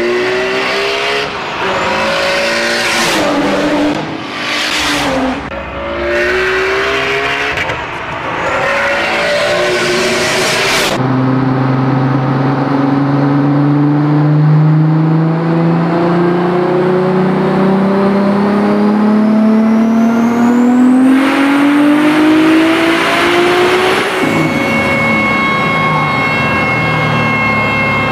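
A turbocharged car accelerating hard through several gears, its engine note climbing and dropping back at each shift. Then a Mk3 VW Golf's turbocharged VR6 revving in one long full-throttle pull on a chassis dyno, the pitch rising steadily with a high whine climbing over it, cut off sharply about 24 seconds in, leaving a steady high tone.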